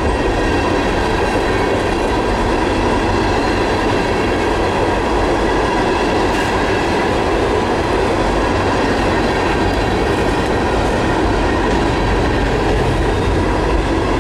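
Herzog ballast cars of a freight train rolling past close by: a steady, loud rumble of steel wheels on rail.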